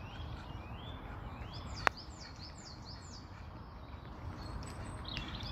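Small birds chirping: a run of short, high chirps that slide downward in pitch, over a steady low rumble. A single sharp click about two seconds in is the loudest sound.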